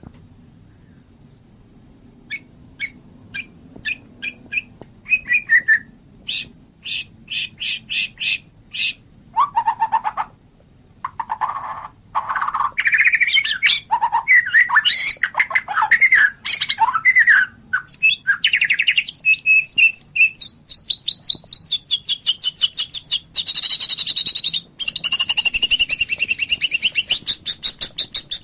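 White-rumped shama (murai batu) singing: a run of short, sharp high notes about two a second, then a few low whistles, then varied sliding song phrases that turn into long, fast high trills in the second half.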